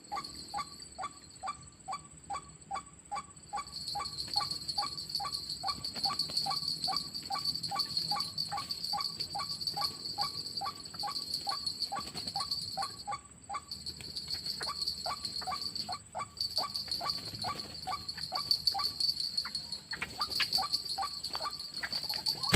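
White-breasted waterhen (ruak-ruak) calls repeating in a steady rhythm of about three a second. A continuous high-pitched insect drone joins about three and a half seconds in and runs alongside.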